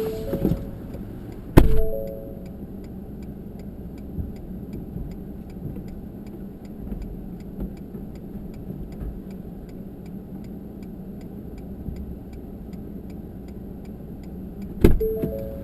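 Steady, even clicking of a pickup truck's turn-signal or hazard flasher, about two clicks a second, over the low running of the truck. A loud thump comes about a second and a half in, and another near the end.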